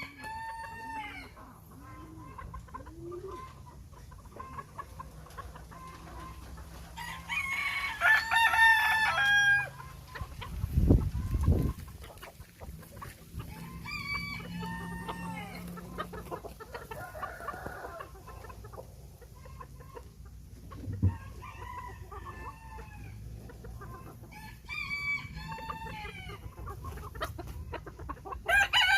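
Bantam roosters crowing again and again, with chickens clucking between crows; the loudest crow comes about 8 seconds in. Two dull low thumps land around 11 seconds and another near 21 seconds.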